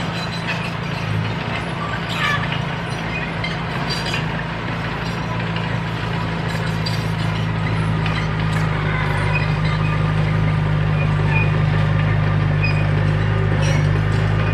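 Diesel engine of a heavy earthmoving machine running steadily, with scattered light clinks; it grows a little louder about halfway through.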